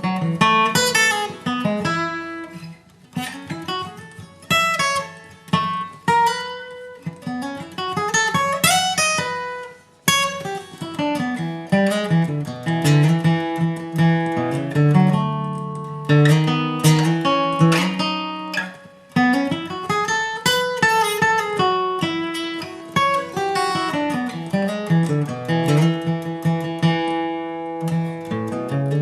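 Acoustic guitar flatpicking a slow instrumental break between verses: single-note runs that climb and fall, mixed with strummed chords.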